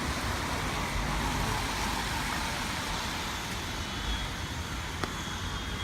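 City street traffic: a steady rumble and hiss of passing cars and other road vehicles, with one short click about five seconds in.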